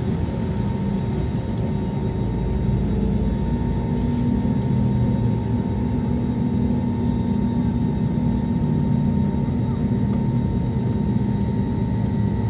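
Steady engine and airflow noise of an Airbus A320neo heard inside the passenger cabin: a low rumble with a faint, constant whine held on top.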